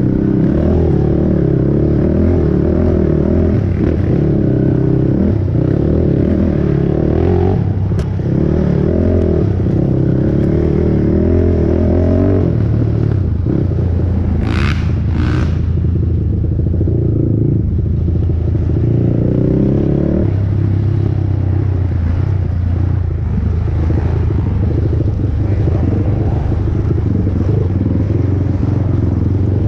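A 450cc single-cylinder four-stroke race ATV engine running under load, its pitch rising and falling as the throttle is worked and the gears change. About halfway in come two short, sharp bursts of noise.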